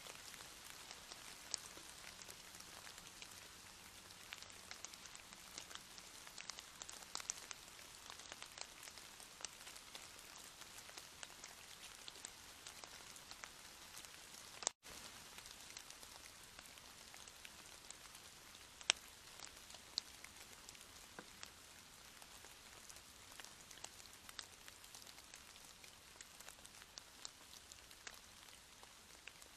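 Steady light rain falling, an even hiss with many individual drops ticking on a surface. The sound cuts out for an instant about halfway through.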